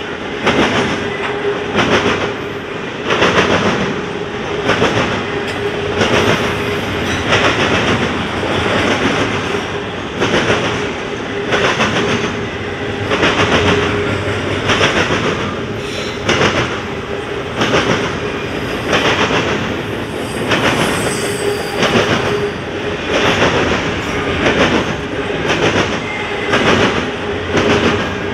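Double-stack container cars of a freight train rolling past, their wheels clattering over rail joints and the diamond crossings in a steady repeating rhythm, about one beat every second or so, over a continuous rumble with a faint steady whine underneath.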